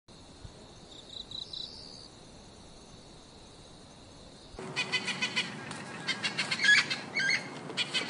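Birds chirping: a few faint short chirps about a second in, then from about halfway a denser, louder run of chirps and clicks.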